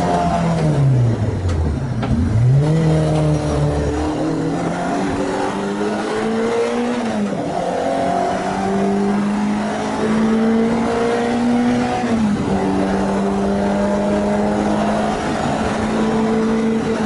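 Renault Clio 2 RS MiniCup's 2.0-litre four-cylinder engine working hard on track, with its freshly rebuilt engine on its first test. The engine note falls steeply off the throttle in the first two seconds and climbs again, then rises through the gears, dropping at each upshift about seven and twelve seconds in.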